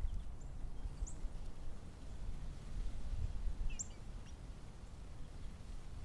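A few faint, short, high bird chirps, about one and four seconds in, over a steady low background rumble.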